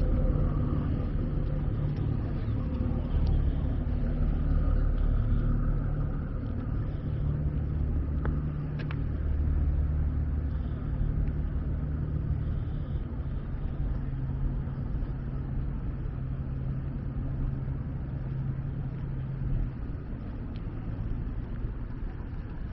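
Steady low rumble of motor vehicle engines, with a low hum that holds for most of the stretch and eases off near the end.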